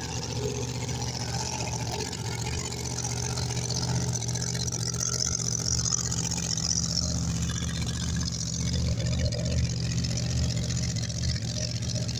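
Drag racing car's engine idling steadily with a low, even drone, slightly louder through the middle, as the car rolls back to the starting line.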